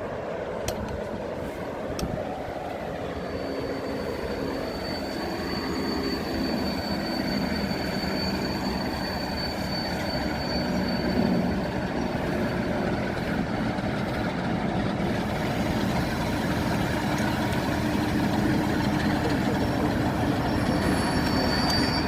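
Diesel-hauled train arriving: a Class 47 locomotive's engine running under a growing rumble of wheels on rail. A thin, steady, high squeal from the wheels runs from about three seconds to about fifteen seconds in.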